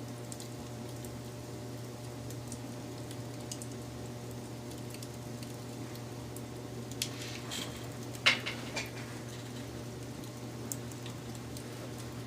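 Wood fire crackling: scattered small crackles over a steady low background, with a brief flurry of louder pops a little past halfway.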